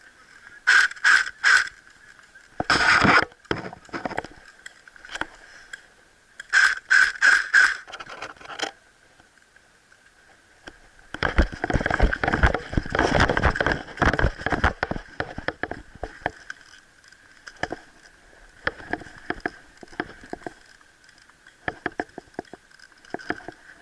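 Airsoft rifle firing in short strings of shots: three quick shots about a second in, a tight burst around three seconds, and four more shots near seven seconds. About halfway through comes a few seconds of heavy rustling and scraping, like movement through brush, followed by scattered lighter clicks.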